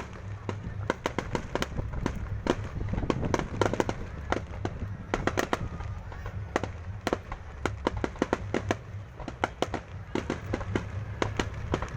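Aerial fireworks going off in a rapid, irregular run of sharp bangs and pops, several a second, over a steady low rumble.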